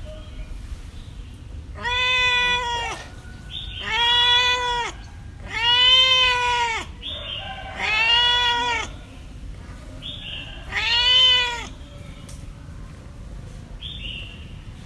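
A cat meowing five times, each meow about a second long with its pitch rising and then falling, spaced about two seconds apart.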